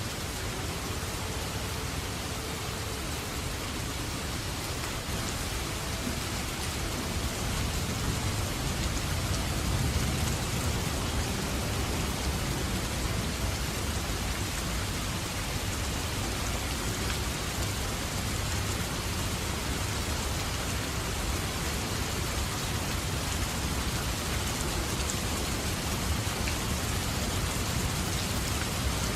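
Steady heavy rain falling on surfaces, with a low rumble underneath that swells slightly about a third of the way in, likely distant thunder.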